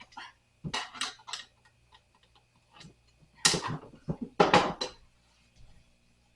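Metal screws and a screwdriver clinking and rattling while a nightstand is taken apart, in two bursts: a light one about a second in and a louder one around the middle.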